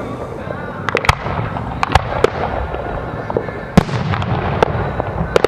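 Aerial fireworks bursting in an irregular series of sharp bangs, about eight in all, the loudest about two-thirds of the way through.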